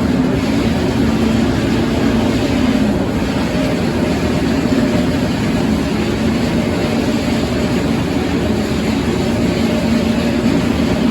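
Sawmill machinery running steadily, a loud even machine noise with a constant low hum.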